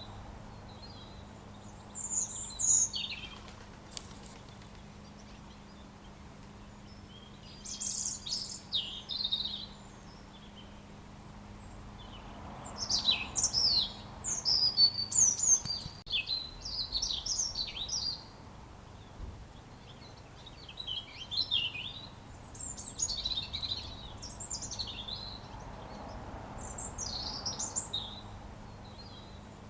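A robin singing: short phrases of high, fast, varied notes, separated by pauses of a few seconds, with a longer run of phrases near the middle.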